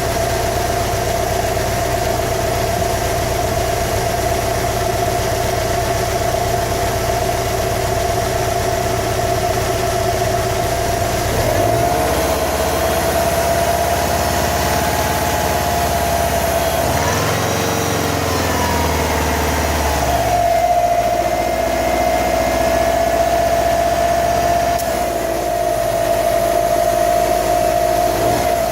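A 2015 Subaru WRX STI's turbocharged flat-four engine idling steadily, an engine being diagnosed for a knock. Its note changes about twelve seconds in, and around two-thirds of the way through the pitch briefly rises and falls back.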